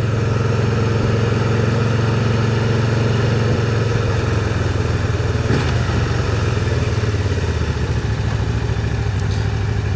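Can-Am Spyder three-wheeled motorcycle's engine running steadily while riding, with wind noise over it. About five and a half seconds in, the engine note shifts slightly lower.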